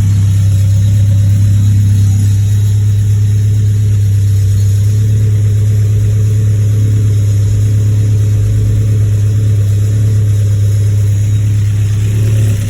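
Honda B20 VTEC four-cylinder engine with Skunk2 camshafts and Blox Racing valve springs and retainers, running steadily at an even, unchanging speed on its first start-up after the build.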